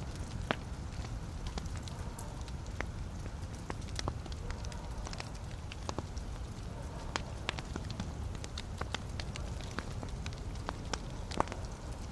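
Wood fire burning in a fireplace: a steady low rumble of flames under irregular sharp crackles and pops from the burning logs, a louder pop about half a second in and another near the end.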